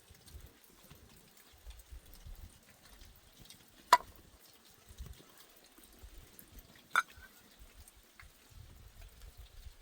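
Two sharp clicks, about three seconds apart, over a faint low rumble.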